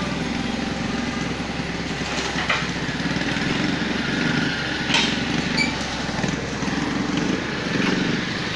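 A small engine running steadily, with a low pulsing hum and two sharp clicks about two and a half and five seconds in.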